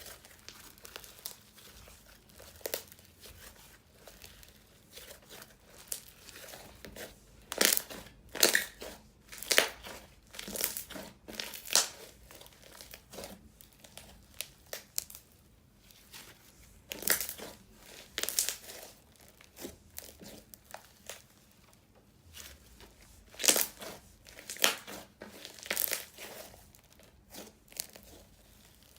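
Crunchy slime being squished and stretched by hand, giving irregular bursts of crackling and popping clicks.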